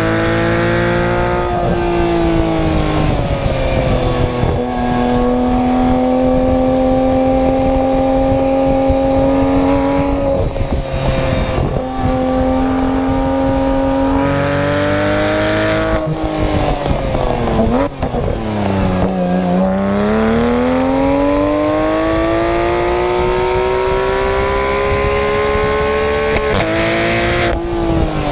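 Porsche 991 GT3 RS's naturally aspirated flat-six at high revs on track. The pitch climbs through the gears with quick drops at each gear change. About two-thirds of the way through it falls low as the car slows, then rises steadily through one long pull.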